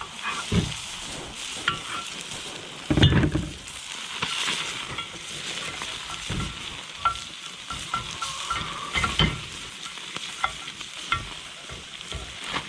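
Food sizzling steadily in a frying pan, with scattered clinks and knocks of kitchen utensils and one louder thump about three seconds in.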